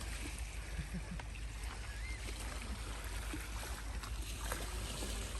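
Wind rumbling on the microphone with a steady hiss outdoors on the beach, and one faint short chirp about two seconds in.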